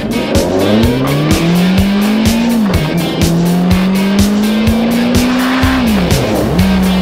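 Motorcycle engine accelerating, its pitch climbing, dropping about two and a half seconds in, climbing again and dropping about six seconds in, then holding steady. Background music with a steady beat plays over it.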